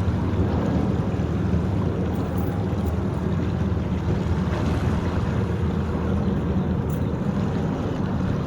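Steady low drone of a boat motor running, with wind buffeting the microphone.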